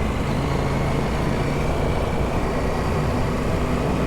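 Adventure motorcycle's engine running steadily while riding a sandy dirt road, under a steady rush of wind and tyre noise.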